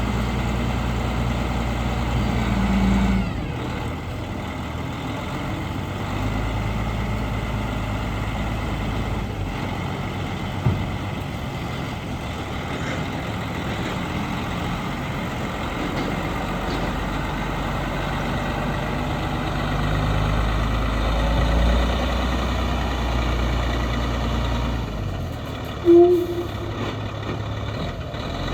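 Diesel engine of a 2006 Sterling tandem-axle dump truck running steadily, its low drone swelling and easing now and then. A click comes about a third of the way in, and a short, loud pitched sound near the end.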